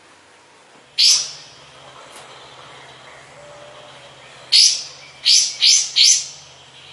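Kapas tembak bulbul calling: one loud, sharp note sweeping down in pitch about a second in, then a quick run of four more such notes near the end.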